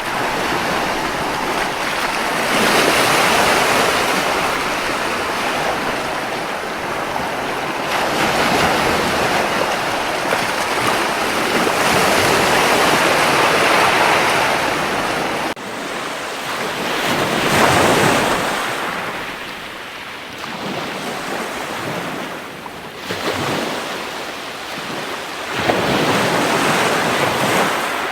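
Ocean surf washing onto a beach, swelling and falling back every few seconds.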